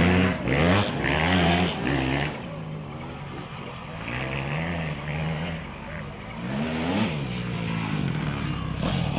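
Racing motorcycle engines revving hard and changing gear as bikes pass on the track, their pitch climbing and dropping again and again. The engines are loudest in the first two seconds, fade in the middle, and come back up in the last few seconds.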